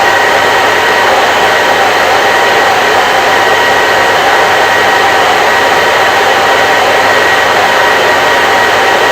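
Electric hair dryer running steadily: an even rushing noise from the fan and airflow, with a faint steady whine in it.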